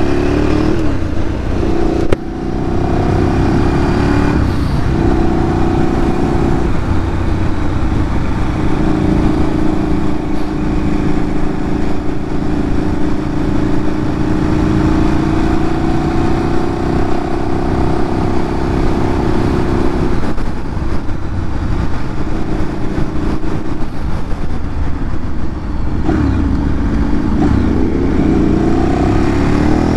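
Ducati Streetfighter 848's L-twin engine through a Termignoni exhaust, ridden on the road. Its pitch falls at first, with a sharp click about two seconds in. It then holds steady while cruising through the middle, and rises again near the end as the bike accelerates.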